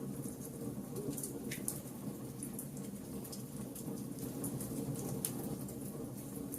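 Wood fire burning: a steady low rush of flame with frequent small, irregular crackles and pops from the burning wood.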